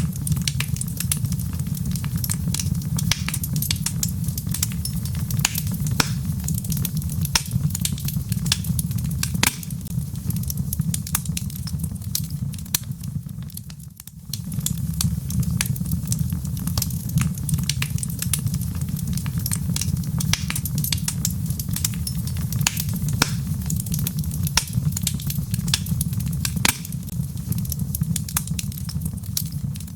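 Wood fire in a fireplace crackling, with irregular sharp pops and snaps over a steady low rumble of the flames. The sound dips briefly about halfway through.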